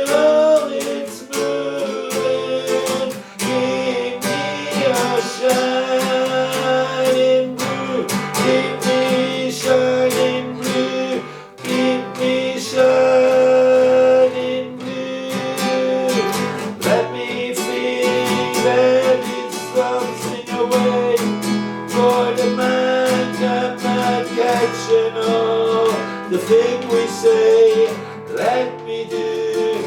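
Music led by acoustic guitar, with a sustained melody line over it.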